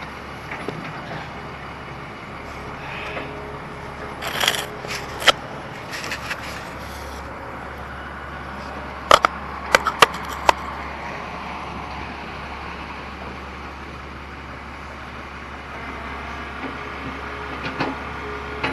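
Heavy excavator's diesel engine running steadily, with sharp cracks and knocks of material being broken: a few about four to five seconds in, and a quick cluster of four about nine to ten seconds in.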